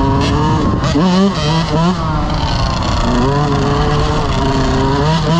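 Several dirt bike engines revving up and down together, their pitches rising and falling as they ride, with one revving sharply about a second in.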